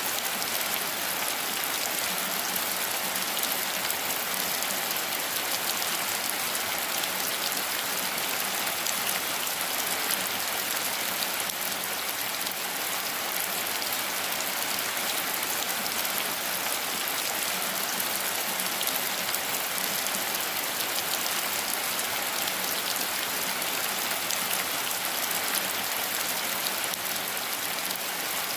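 Steady rain falling on foliage and ground, an even hiss with fine scattered drop ticks.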